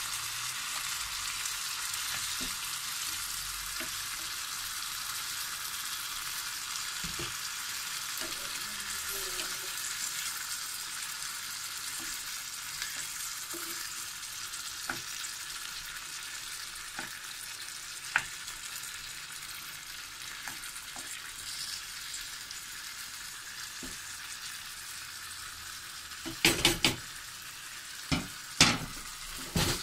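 Halved cherry tomatoes and garlic sizzling in a little oil in a nonstick frying pan, stirred with a wooden spoon; the sizzle is a steady hiss that eases slightly. Near the end come a few loud, sharp knocks.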